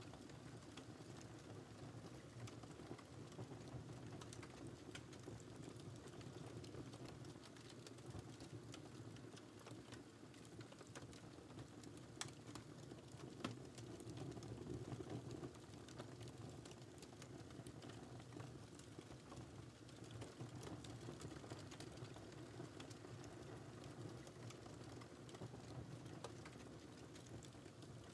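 Faint wood fire crackling in a fireplace: a steady low rumble of flame with scattered small pops and ticks, and a couple of sharper cracks near the middle.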